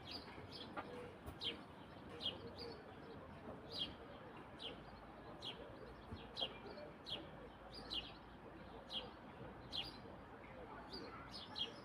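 A bird repeating a short, high chirp every half-second to second, each note sliding downward in pitch, over a faint steady background hum of the evening outdoors.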